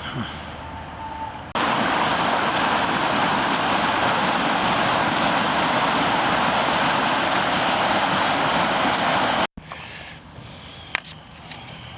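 Floodwater of the swollen South Boulder Creek rushing fast: a loud, steady rush with no pitch. It starts abruptly about a second and a half in and cuts off sharply about two and a half seconds before the end, leaving quieter outdoor background.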